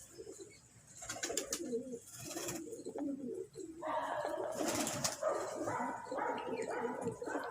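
Domestic pigeons cooing repeatedly in low, wavering calls, with a few short rustling bursts in between.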